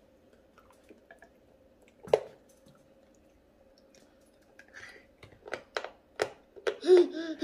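Children biting and chewing chocolate: soft mouth sounds and scattered small clicks, with one sharp click about two seconds in.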